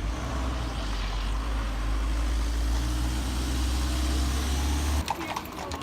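A motor vehicle's engine running with a deep, steady low rumble that cuts off abruptly about five seconds in.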